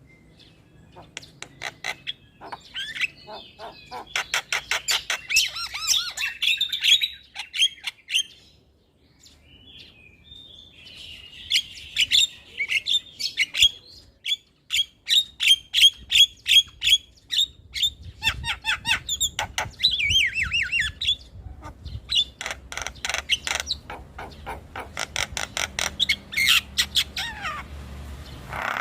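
Javan myna (jalak kebo) calling: fast runs of harsh clicking notes and squawks, broken by short pauses about eight seconds in and again around fourteen seconds.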